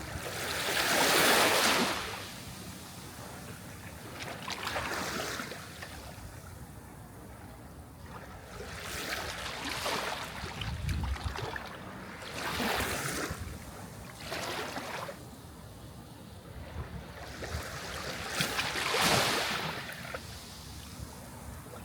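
Sea waves breaking and washing on the shore, coming in about six uneven swells of surf, the loudest about a second in and again near the end.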